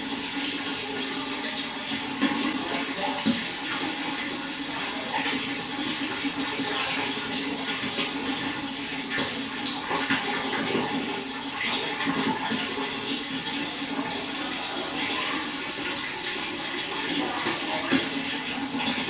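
Running water splashing and trickling steadily.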